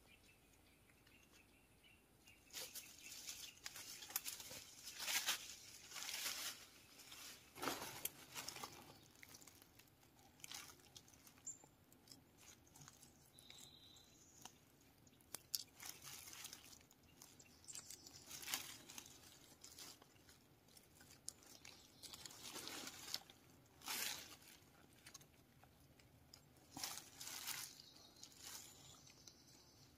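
Faint, irregular crunching and rustling of dry leaves and twigs underfoot on the forest floor, in scattered short bursts with pauses between them.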